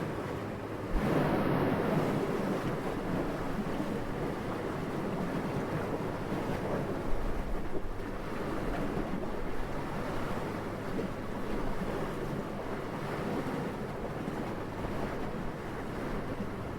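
Wind blowing steadily, a soft rushing that swells into a stronger gust about a second in, then rises and falls gently.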